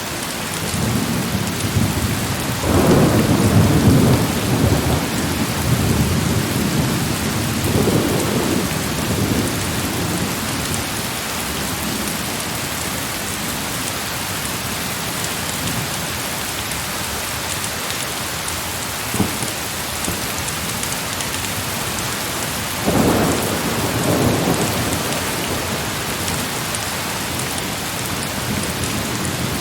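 Steady heavy rain with rolls of thunder: a long low rumble builds about a second in and dies away over several seconds, and a second, shorter roll comes about three quarters of the way through.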